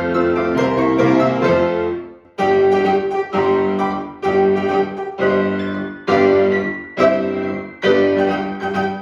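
Piano played four hands in a fast duet. It dips briefly about two seconds in, then plays a run of separate accented chords a little under a second apart, each ringing and fading before the next.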